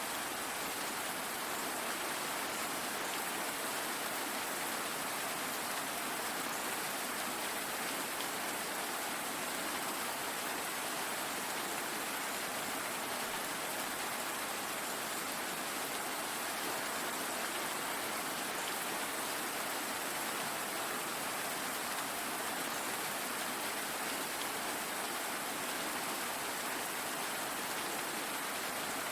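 Steady rain falling, an even hiss without distinct drops or thunder.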